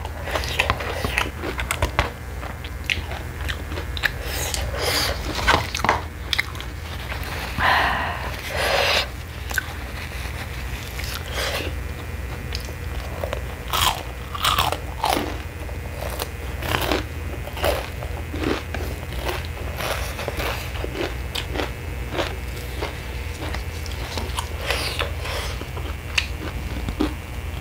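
Close-miked eating sounds: chewing and biting mouthfuls of Chapaguri instant noodles, with many short sharp mouth clicks over a steady low hum.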